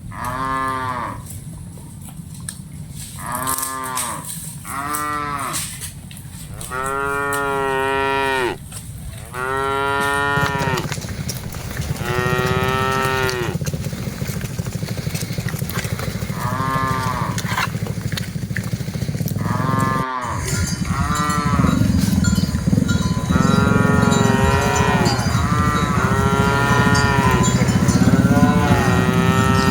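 Cattle mooing over and over, many drawn-out calls from several animals, each rising and then falling in pitch, some overlapping, over a steady low hum.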